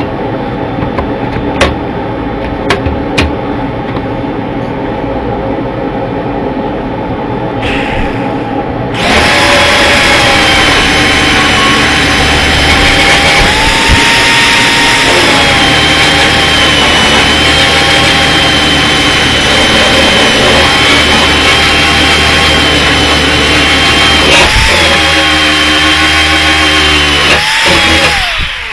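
A handheld power tool running with a steady high whine; it becomes much louder and harsher about nine seconds in, and its tone shifts briefly near the end.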